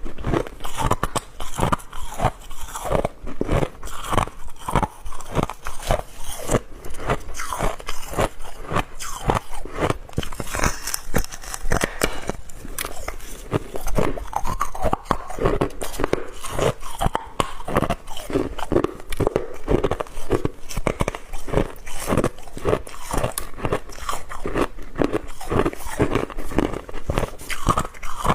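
A person biting and chewing hard ice cubes close to the microphone: rapid, irregular crunching and cracking, one crunch after another without pause.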